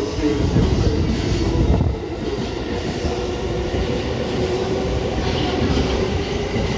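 255 series electric multiple unit train pulling in to the station platform, its wheels and running gear giving a steady rumble with a steady hum from the train under it.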